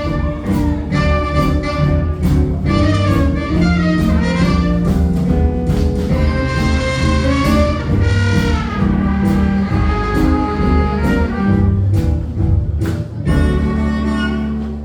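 Live jazz band playing: a horn melody with bending notes over a walking double bass and regular drum and cymbal hits.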